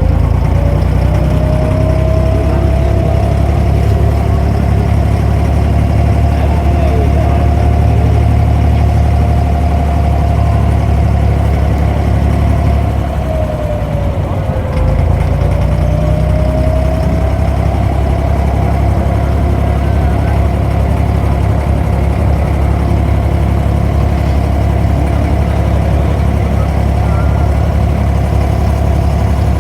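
An abra water taxi's diesel engine runs steadily with a low drone and a whine above it. About halfway through it eases off for a couple of seconds, then picks back up.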